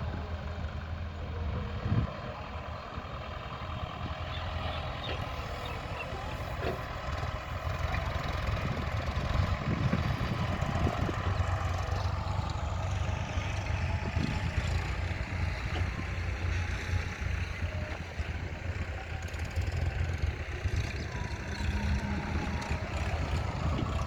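Tractor's diesel engine running steadily, with a few sharp knocks over its hum.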